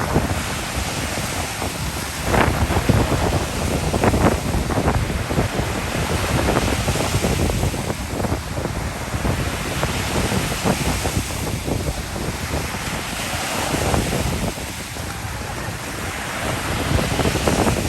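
Ocean surf breaking and washing up the beach, rising and falling as the waves come in, with wind buffeting the microphone.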